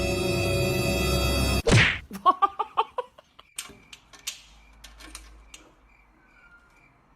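Music that cuts off abruptly, then a swish and a sharp knock, followed by a quick run of knocks and taps that thins out into scattered faint clicks.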